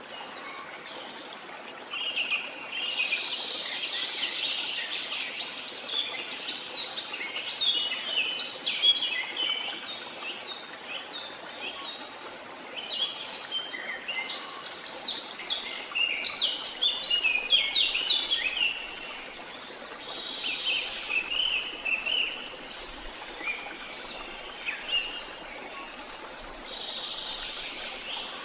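Small songbirds chirping and singing in quick, twittering phrases over a steady hiss of background noise. The singing comes in two busier spells, then thins out near the end.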